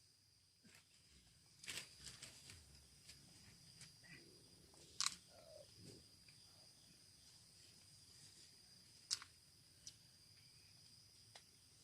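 Faint, steady high-pitched insect chorus, crickets or similar, with a few scattered sharp clicks, the loudest about five and nine seconds in.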